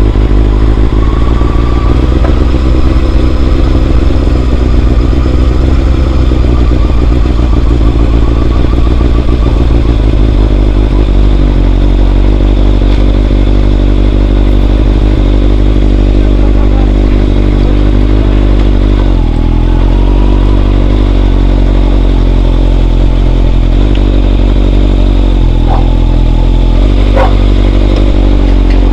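Motorcycle engine running steadily while riding, with a heavy low rumble. The engine note shifts a little about two-thirds of the way through and again near the end, and there are a few short clicks near the end.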